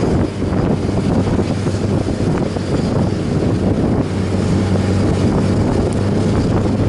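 Wind rushing over the microphone of a moving motorcycle, with the engine's steady hum underneath.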